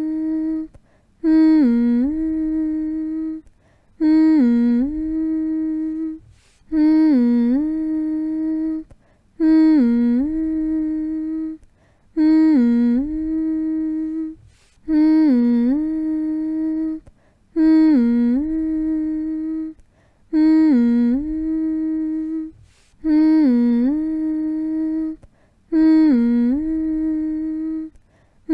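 A voice humming the same 'mm-hmm' phrase over and over, about ten times: each hum lasts about two seconds, dips in pitch at the start, then holds one steady note before a short break.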